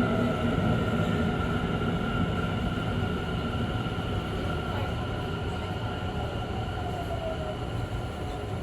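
Tobu 50000-series electric train braking into a station, heard from inside the car: the running rumble slowly dies away as the train slows. A motor whine falls in pitch near the end.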